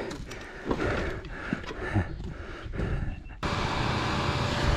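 Dirt bike engine running, with rumbling wind and handling noise on the microphone; about three and a half seconds in, the sound switches abruptly to a steadier, even engine hum.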